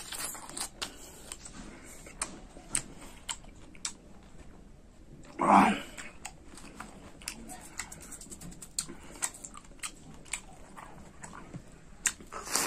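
Close-up wet chewing and lip-smacking as a person eats soft, juicy mulberries, with many small sharp mouth clicks. About halfway through comes one short, loud voiced sound from the eater.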